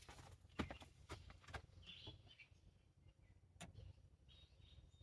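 Near silence, with a few faint short clicks and knocks and faint bird chirps in the background.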